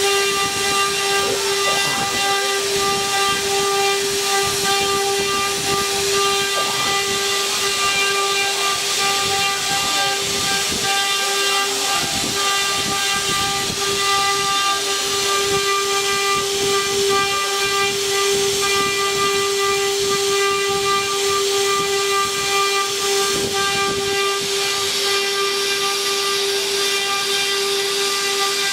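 The spindles of a multi-head 4-axis rotary CNC wood router running at high speed with a steady high whine over a hiss, with faint irregular crackles from the bits cutting wood.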